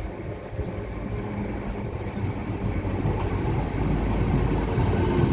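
TransPennine Express Nova 1 (Class 802 bi-mode) train drawing into the platform, its underfloor diesel engines running and its wheels rumbling on the rails. The sound grows steadily louder as it nears.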